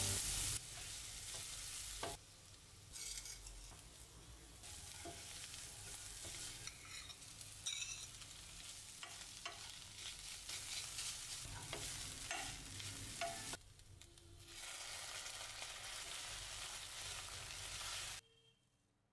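Onion and garlic sizzling in hot mustard oil in a stainless steel pan, then flaked fish frying as it is stirred with a wooden spatula, with small scrapes and clicks against the pan. The sizzle changes abruptly at a few cuts and stops about a second before the end.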